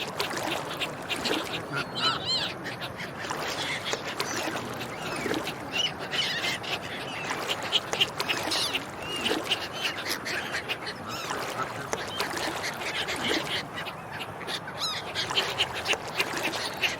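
A flock of ducks quacking and calling, with many short overlapping calls and no break.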